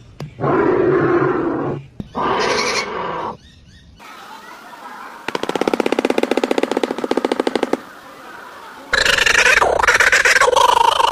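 A string of different animal calls cut one after another: two low calls of about a second each, then a rapid pulsing trill for a couple of seconds, then a drawn-out pitched call that starts near the end.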